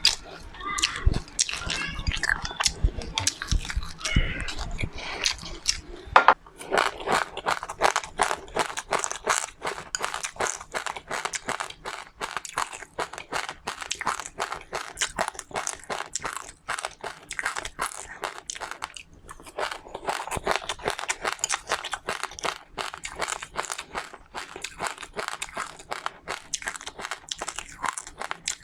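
Close-up chewing and crunching of seeds in the mouth. There are heavier, wetter chews for the first few seconds, then dense, rapid fine crunching from about six seconds in.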